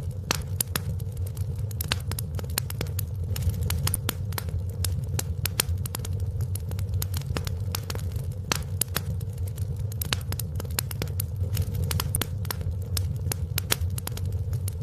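Wood fire in a fireplace crackling: many irregular sharp pops and snaps, some louder than others, over a steady low rumble.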